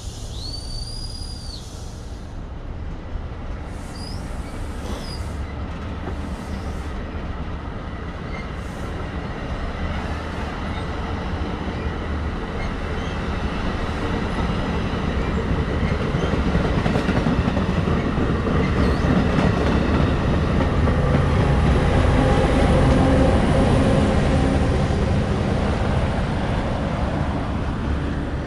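Passenger trains running on the rails: a steady rumble and wheel noise that builds to its loudest about three-quarters through, then eases a little. A brief high squeal rises and falls at the very start.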